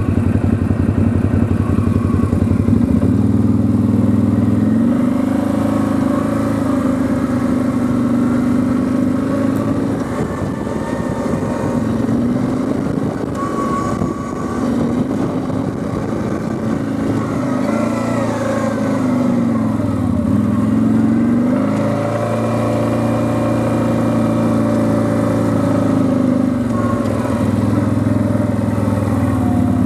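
Quad bike (ATV) engine running under way, its pitch dipping and climbing again several times as the throttle is eased off and opened.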